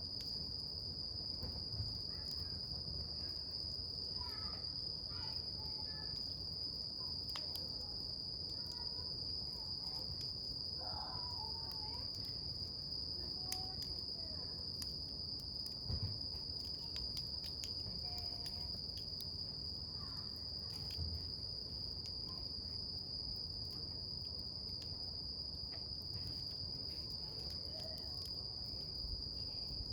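Crickets trilling in one steady, unbroken high-pitched tone, over a wood campfire giving scattered small crackles and pops.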